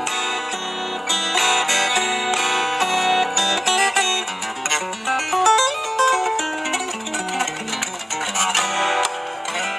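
Solo fingerstyle guitar playing a melody over its own bass line, with a steady stream of fast plucked notes throughout.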